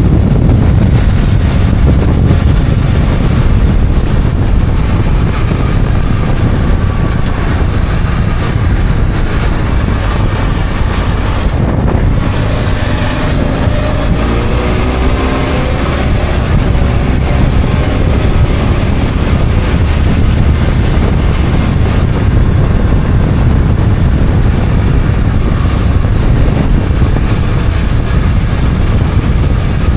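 BMW F800GS parallel-twin motorcycle engine running under way, mixed with heavy wind rush on the microphone. About twelve seconds in the engine note eases briefly, then rises in pitch for a few seconds as the bike accelerates.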